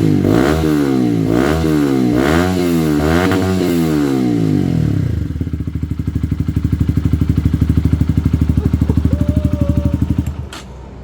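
Honda CBR125's single-cylinder four-stroke engine through a Scorpion exhaust with the baffle removed, blipped up and down several times, then settling to a steady idle before it is switched off near the end, followed by a single click.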